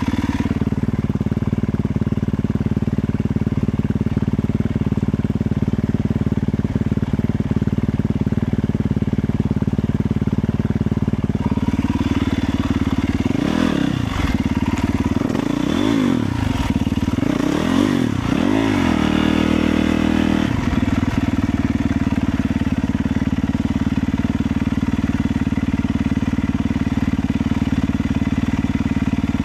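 Motorcycle engine running steadily while riding. Partway through, the pitch dips and rises several times in quick succession before it settles back to a steady drone.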